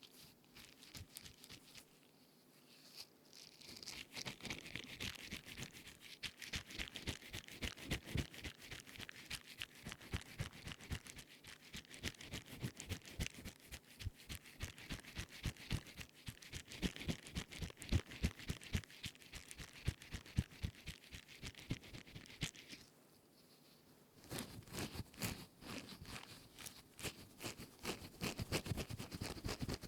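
A silicone scrubbing sponge rubbed and squeezed close to the microphone, making dense, rapid crackling and scratching strokes. The sound is light for the first few seconds, and about 23 s in it stops for a second before starting again.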